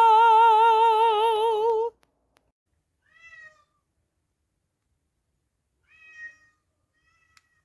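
A voice holding a loud sung note with a wavering vibrato, which cuts off about two seconds in. Then a cat meows quietly twice, a few seconds apart, and once more faintly near the end.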